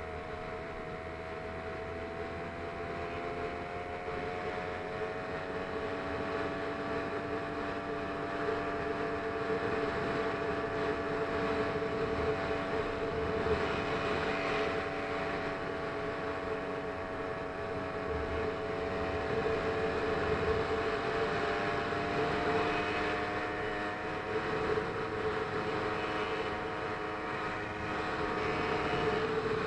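Small engine of a motorized bicycle running steadily, its pitch drifting gently up and down.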